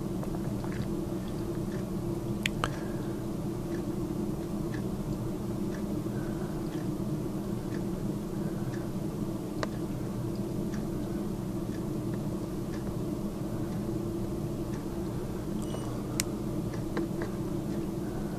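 Used oil draining from an air compressor's crankcase into a plastic bowl, with a few small ticks, over a steady low hum.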